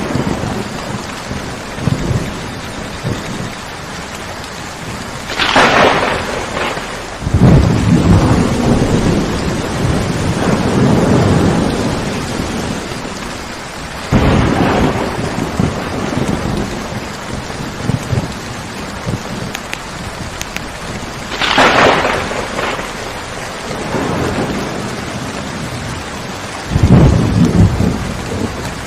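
Steady rain during a thunderstorm, with thunder: a sharp crack about five seconds in and another about twenty-one seconds in, and low rolls of thunder rumbling for several seconds after the first crack and again near the end.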